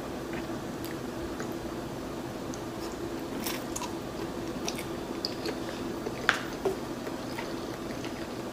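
Close-miked chewing of garlic noodles eaten with chopsticks, with scattered small wet mouth clicks. Two sharper clicks come a little after six seconds in, over a faint steady hum.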